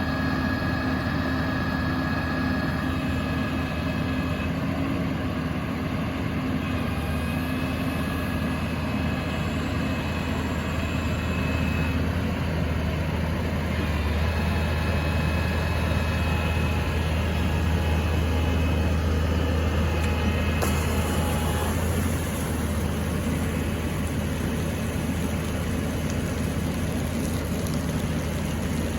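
Bucket truck's engine running steadily, with faint high whines that come and go and shift in pitch.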